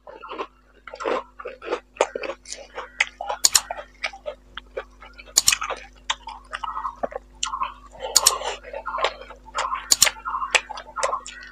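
Close-miked chewing with wet lip smacks and sharp mouth clicks, irregular and continuous: a person eating rice and boal fish curry by hand.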